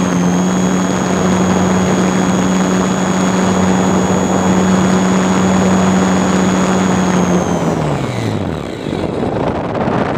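Radio-controlled model plane's motor and propeller running at a steady pitch with a high whine over it, then throttled down near the end, its pitch falling away to nothing. Wind rushes over the microphone throughout and is left alone once the motor stops, as the plane glides.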